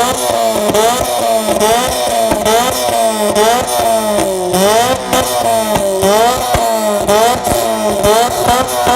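Car engine revved hard in repeated blips, its pitch rising and falling over and over, with sharp pops between the revs.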